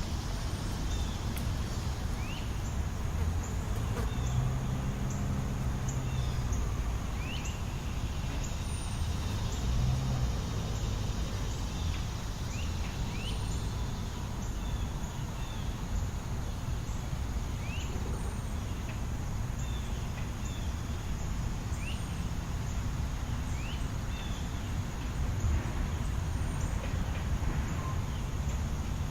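Steady low rumble of city traffic with short, high bird chirps scattered throughout.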